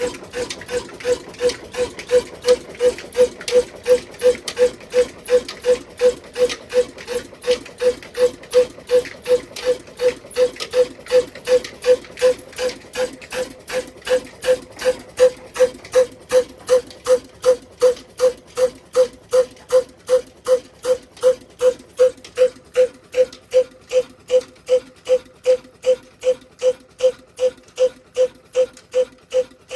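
Diesel engine of a chakki flour mill running slowly and evenly, a regular beat of about two and a half firing knocks a second.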